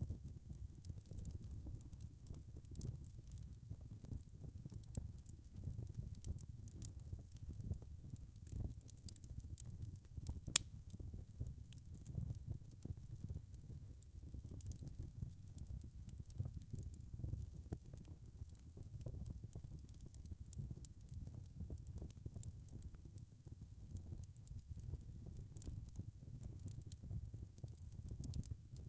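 Wood fire burning, with a steady low rumble under a constant scatter of small crackles and one sharper pop about ten seconds in.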